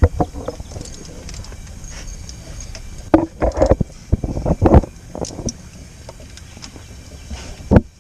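Irregular clunks and knocks of metal tools handled against the ATV while the oil drain plug is being put back in and tightened, in two clusters, about three seconds in and near the end.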